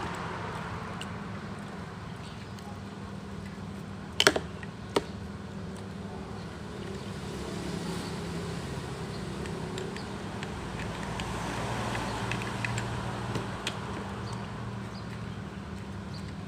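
Steady low hum of background machinery or traffic, with two sharp knocks about four and five seconds in.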